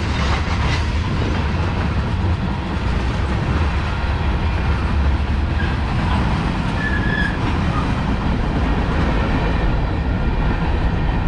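Freight train cars (tank cars, a boxcar and covered hoppers) rolling past: a loud, steady rumble of steel wheels on rail, with a short faint high squeal a little past halfway.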